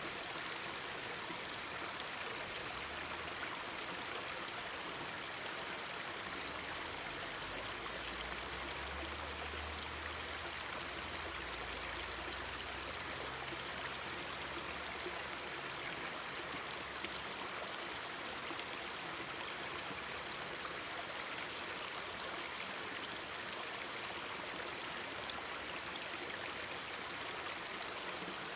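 Mountain stream babbling steadily, with faint scattered crackles of a wood campfire.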